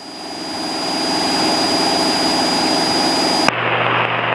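Cessna 172's engine and propeller droning steadily in the cockpit, fading in over the first second. About three and a half seconds in it gives way to the hiss of an open radio transmission.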